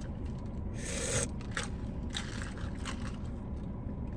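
A brief rustle about a second in, followed by a few light scrapes and clicks of handling, over a steady low rumble.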